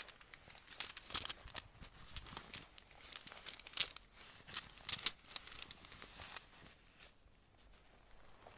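Close-miked ASMR handling noise: a fast, irregular run of crinkly, crackling clicks and taps that dies down about seven seconds in.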